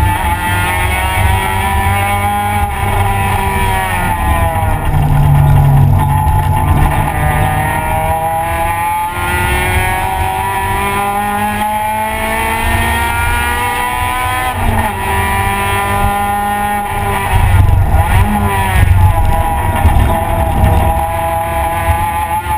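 Race car engine heard from inside the stripped cabin under hard driving on a road course: the revs climb repeatedly and drop back with gear changes and lifts.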